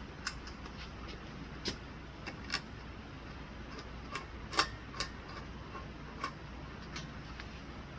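Irregular light clicks and taps of screws and metal blade brackets being handled while the blades are fitted to a small ceiling fan, the sharpest click a little past halfway.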